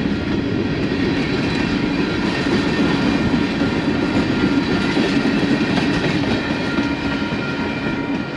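Union Pacific train running on the rails: a steady rumble with the clatter of wheels over the track and a few faint steady high tones above it.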